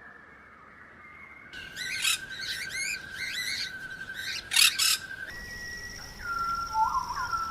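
Birds calling in short edited clips: a run of quick sweeping chirps, then repeated falling whistled notes with short warbling notes beneath, over a steady high ringing tone.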